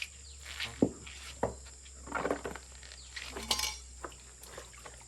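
A knife cutting a fish into chunks: a few sharp knocks and clinks, the loudest two in the first second and a half, with short scraping noises after.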